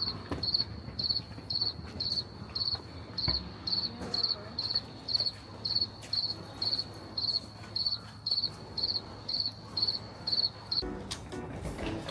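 An insect chirping steadily, short high trilled chirps about two a second, stopping near the end.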